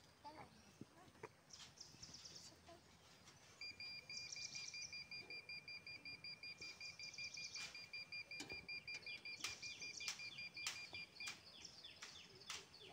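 Faint birdsong: birds chirping and trilling. From about three and a half seconds in until near the end, a thin, evenly pulsed high tone runs alongside. A few sharp clicks fall in the second half.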